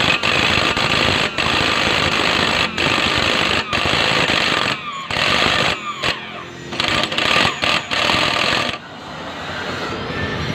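Jigsaw running and cutting plywood. In the second half it stops and starts in short bursts, and the loud cutting drops away about nine seconds in.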